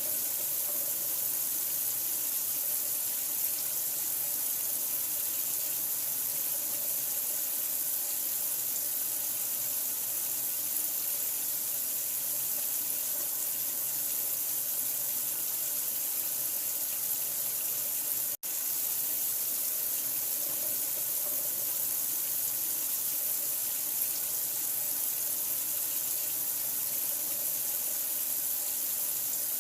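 Steady rushing of running water, a constant hiss strongest in the high end, used as sleep noise for a newborn. It cuts out for an instant about two-thirds of the way through, then carries on unchanged.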